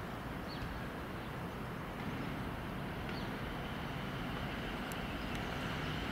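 A train's steady rumble at a station platform, growing a little louder near the end.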